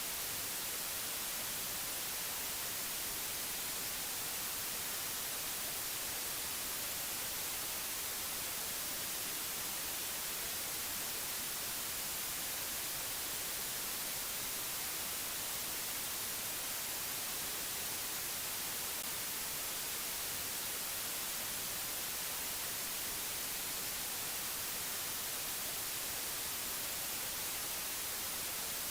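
Steady, even white-noise hiss, brightest in the treble, with no change in level.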